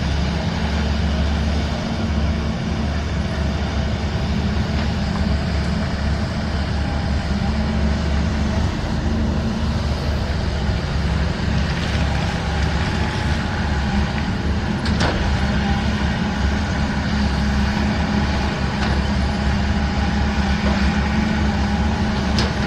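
Heavy diesel engine of construction machinery running steadily under load, with a couple of sharp metallic knocks, one midway and one near the end.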